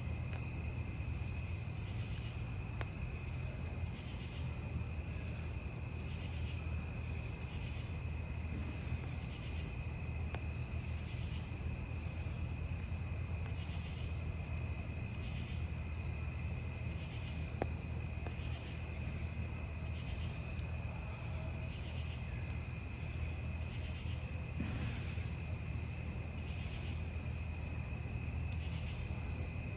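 Crickets chirping together at several pitches: two hold unbroken trills while another pulses at a regular beat, a little faster than once a second. They sound over the low, steady rumble of a wood campfire with an occasional faint crackle.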